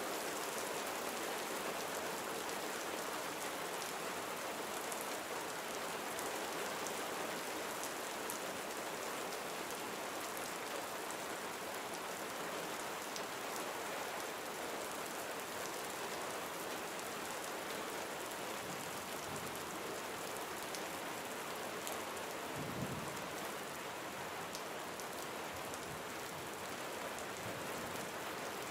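Steady gentle rain falling on surfaces, an even hiss with fine patter of individual drops. A brief low thump about two thirds of the way through.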